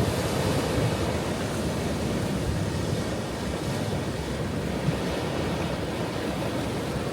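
Ocean surf: a steady low rush of waves, with no single crash standing out.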